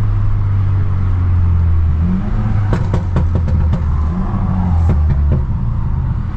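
Straight-piped, Stage 2+ tuned BMW F30 328i's turbocharged four-cylinder engine and exhaust running under way, its note rising and falling twice, with several sharp pops from the exhaust.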